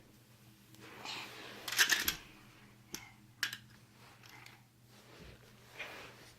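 Toy train pieces being handled and put together: a rustle, then a quick cluster of clicks and clatter about two seconds in, followed by a few single clicks.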